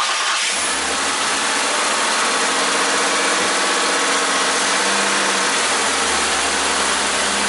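A 3-litre car engine idling steadily, just after being started, heard close up in the open engine bay.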